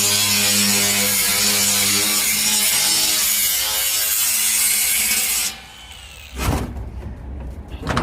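A power tool running steadily with a hum and a loud hiss, as when cutting. It stops suddenly about five and a half seconds in, and a single loud knock follows about a second later.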